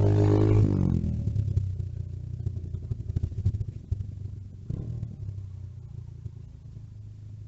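Small engine of a mini bike running past, its pitch dropping as it fades away in the first second. A low steady hum remains, with a brief louder sound a little before five seconds in.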